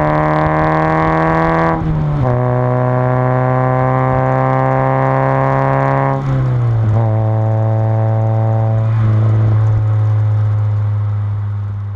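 A 1992 Mazda Miata's 1.6-litre four-cylinder running through an unbaffled RoadsterSport 3 cat-back exhaust while driving through the gears. The note climbs slightly, then drops with an upshift about two seconds in and again about six seconds in. It fades out near the end.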